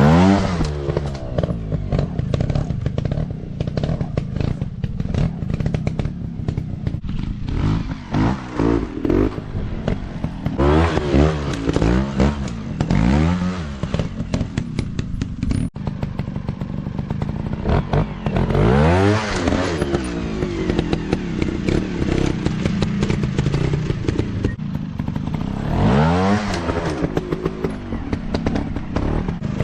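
Dirt bike engines revving hard again and again, the pitch rising and falling with each burst of throttle, with clattering and scraping throughout.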